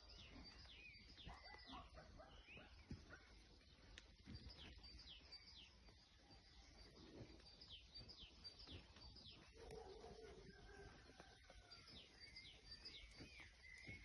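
Faint dawn chorus of several small birds chirping and singing, many short high notes overlapping one another.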